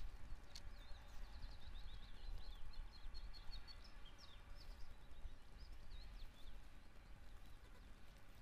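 A small songbird singing a quick run of high chirps, over a faint low rumble.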